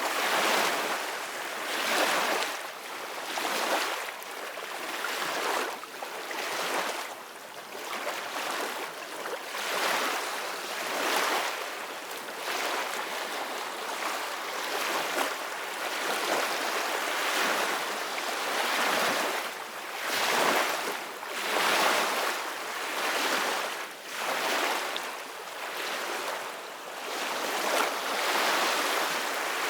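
Ocean waves breaking and washing on the shore, the surf swelling and falling back every second or two.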